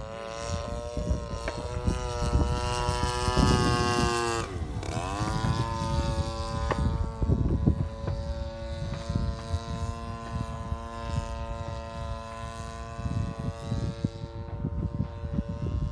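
Engine and propeller of a Sig Rascal 110 radio-controlled model airplane in flight, running at high throttle, then dropping sharply in pitch about four and a half seconds in and holding a steadier, lower drone. Wind buffets the microphone throughout.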